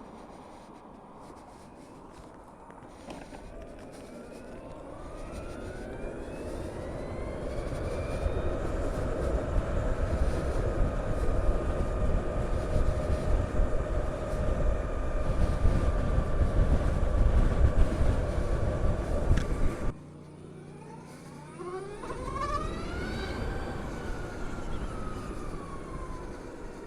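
Harley-Davidson LiveWire electric motorcycle's motor whine rising in pitch as the bike accelerates, then holding steady under a building rush of wind noise. About two-thirds through the sound cuts off suddenly. Another whine then rises quickly and falls away near the end as the bike speeds up and slows.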